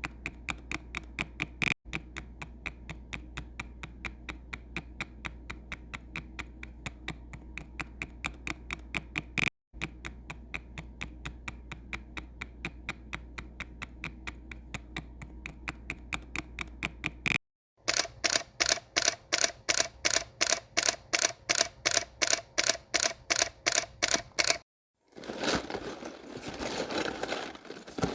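Rapid, evenly spaced sharp clicks over a low hum, about four or five a second. About two-thirds of the way in they give way to a louder, slower series of about three a second, and near the end to a short, denser clatter.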